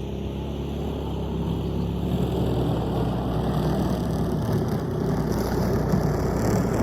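A vehicle engine running steadily, gradually getting louder, with a heavy noisy rumble over it.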